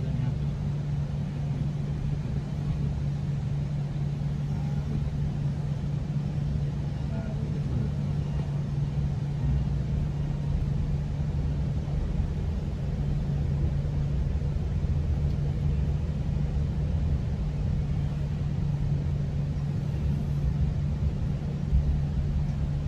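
Steady rumble of a GO Transit commuter train under way, heard from inside a bi-level passenger coach, with a constant low hum.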